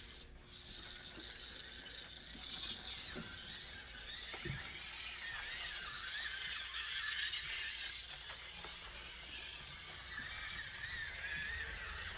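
Axial SCX24 mini crawler's small electric motor and gearbox whining as it crawls, the pitch wavering up and down with the throttle.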